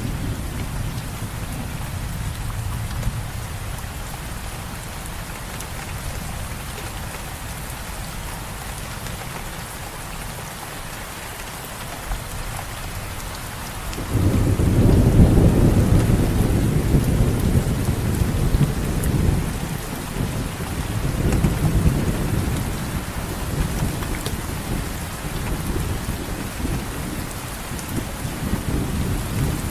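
Steady rain falling, with a low rumble of thunder that starts suddenly about halfway through and rolls on in swells.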